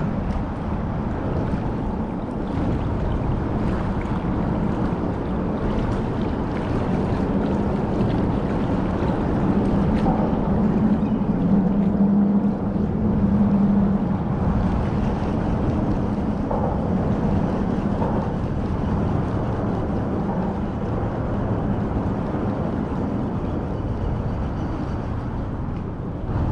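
A steady low engine drone over a rushing wind-like noise, the drone swelling and loudest about halfway through.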